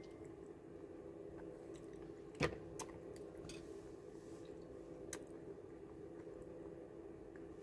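A person chewing food with soft mouth sounds, including a sharp click about two and a half seconds in and a few fainter clicks after it, over a steady low hum.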